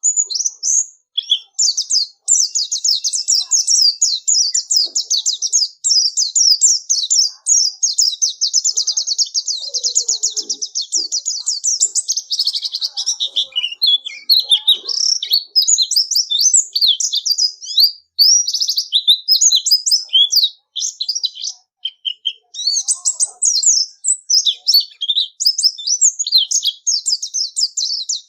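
Pleci (white-eye) singing a long, fast, high twittering song of rapid chirps and trills, broken only by a few short pauses past the middle.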